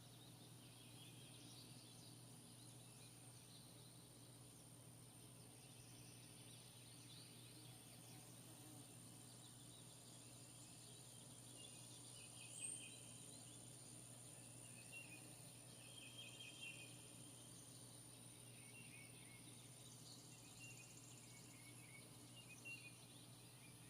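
Near silence: faint background ambience with a steady low hum and a few faint, short, trilled chirps from small animals such as birds or insects.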